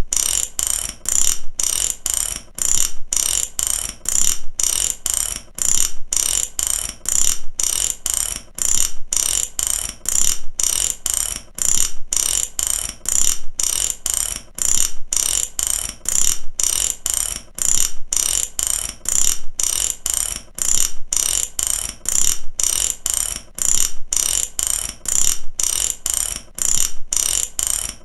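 A ratchet clicking in a fast, even run of sharp clicks, about three a second, falling into groups roughly a second apart like repeated cranking strokes.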